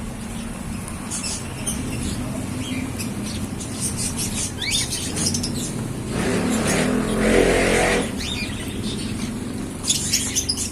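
African lovebirds giving short, high chirps and calls, one a quick rising whistle, over a steady low hum. About six seconds in, a louder rushing noise with a low rumble covers them for about two seconds.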